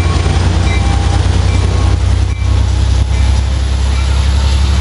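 EMD F59PH diesel locomotive working under power as it pulls a Metrolink train out of the station: a steady, loud, deep engine drone over rolling train noise.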